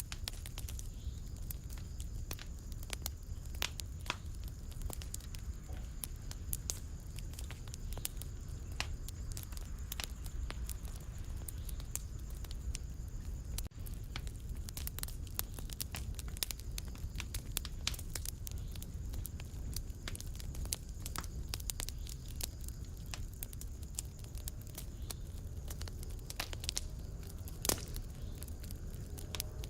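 Wood fire in a fireplace crackling and popping in irregular sharp snaps, over a steady low rumble from the burning.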